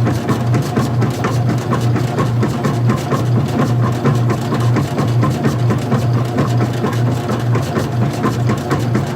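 Old-style front-loading washing machine running: a steady low motor hum with a fast, regular ticking of several clicks a second.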